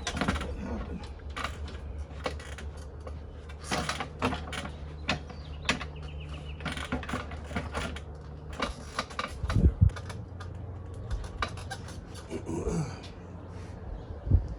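Hand work with bolts and washers on a plywood board: repeated small metallic clicks and knocks, with a couple of heavier thumps, about two-thirds through and near the end. A steady low hum runs under it and stops about two-thirds through.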